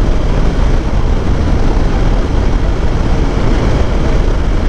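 Hero Xpulse 200's single-cylinder engine running, with steady wind and road noise, while the motorcycle is ridden along a highway.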